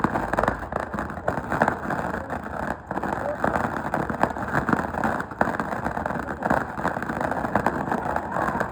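Fireworks crackling: a dense, irregular run of rapid small pops.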